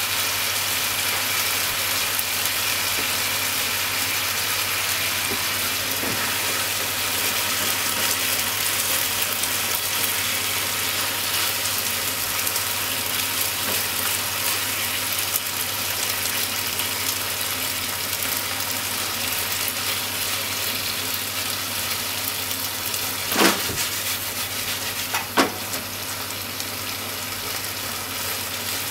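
Sliced pork and onions sizzling steadily in a frying pan as they are stir-fried, with two sharp knocks near the end.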